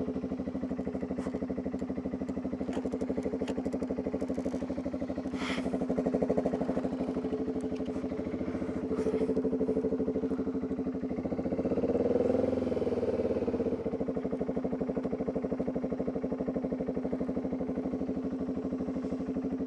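Motorcycle engine running steadily, with a few brief swells in revs, the largest about twelve seconds in.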